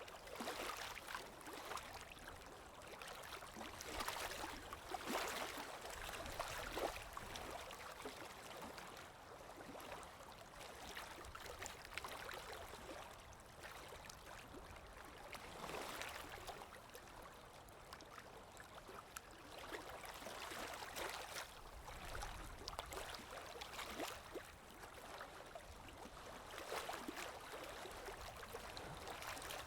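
Water lapping and splashing gently in small uneven surges every few seconds over a soft wind, from a looped nature ambience recording.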